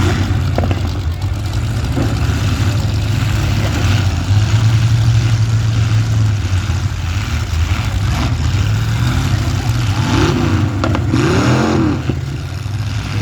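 Demolition derby cars' engines running loudly and steadily, with engines revving up and back down a few times near the end.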